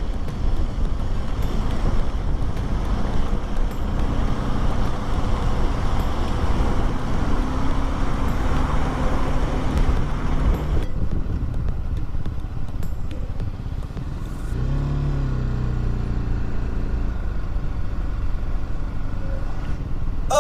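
Motorcycle engine running on the move, under road and wind hiss. About halfway through the hiss drops away, and a little later the engine is heard accelerating, its pitch rising.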